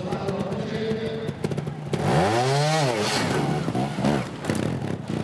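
Trials motorcycle engine running at low revs, then revved up hard and back down once about two seconds in as the bike is driven up a tall obstacle, followed by a few shorter throttle blips.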